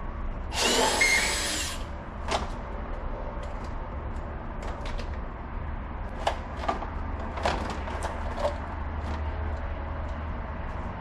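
A power tool runs in one short burst of about a second, followed by scattered metallic clicks and knocks of parts and tools being handled, over a steady low hum.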